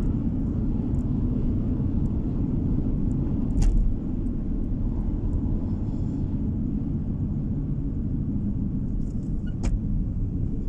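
Car driving on the road, heard from inside the cabin: a steady low rumble of tyre and engine noise, with two sharp thumps, one about four seconds in and one near the end.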